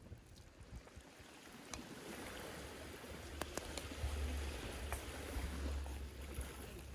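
Sea waves washing onto the beach, swelling about two seconds in, with a low rumble from midway and a few sharp clicks.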